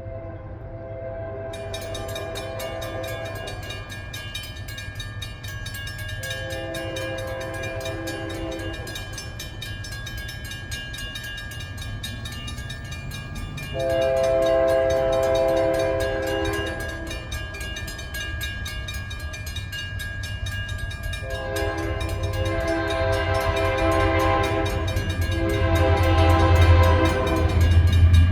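Union Pacific diesel freight locomotive's multi-tone air horn blowing four blasts, the last one the longest, over the low rumble of the train, which grows louder toward the end as it comes closer.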